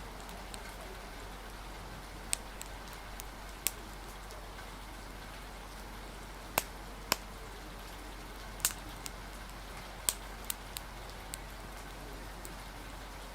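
Steady rain hiss with scattered sharp crackles and pops from a wood fire, coming at irregular moments.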